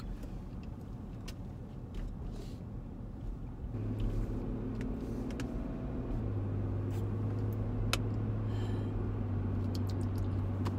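Car engine running, heard from inside the cabin, its low hum growing stronger and steadier about four seconds in. Light clicks and crackles of a plastic water bottle being opened and drunk from.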